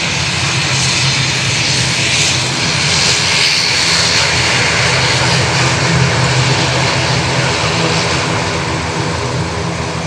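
ATR 72-600 turboprop airliner departing at takeoff power, its twin Pratt & Whitney PW127 engines giving a steady low drone under a rushing noise that swells a few seconds in and eases slightly near the end.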